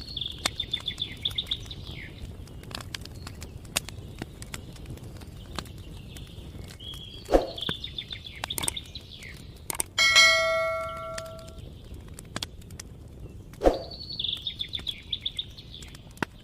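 Songbird singing three short trilled phrases, near the start, about halfway through and near the end, over a steady low background noise with scattered sharp ticks. About ten seconds in, a single bell is struck once and rings out, fading over a second or two.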